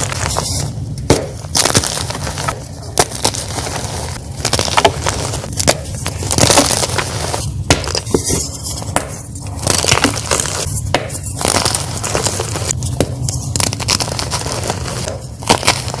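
Ader gym chalk being crushed: a continuous gritty crunching and crumbling full of sharp snaps, with short pauses every second or two.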